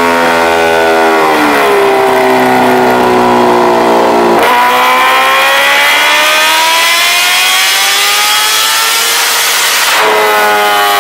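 Kawasaki inline-four sport bike exhaust, loud. The engine note sinks slowly for about four seconds, then switches abruptly to a long, steady climb in pitch as the bike accelerates, and near the end switches back to a steadier note.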